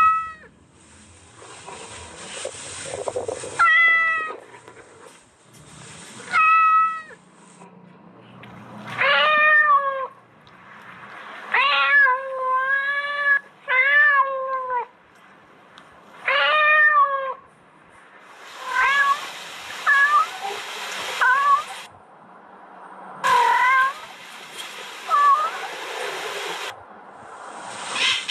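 Kittens meowing: a long run of separate mews that bend up and down in pitch. Partway through, a steady hissing noise sits behind some of the calls for a few seconds.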